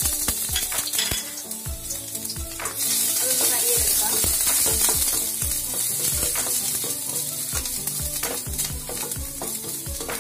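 Minced garlic and ginger sizzling in hot oil in a stainless steel kadai, with a spatula scraping and knocking against the pan many times as it is stirred. The sizzle grows louder about three seconds in.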